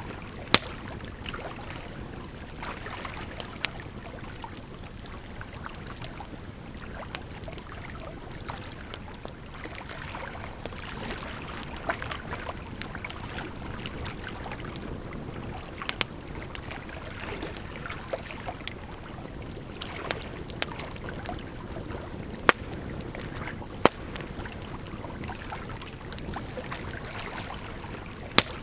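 Firewood crackling in a fire, with sharp isolated pops every few seconds, over a steady wash of running water.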